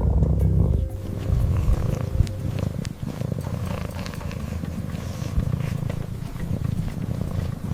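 Domestic cat purring steadily, a low pulsing rumble.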